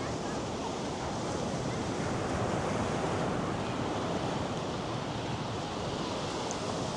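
North Sea surf breaking and washing up a sandy beach: a steady, unbroken rush that swells slightly midway, with some wind on the microphone.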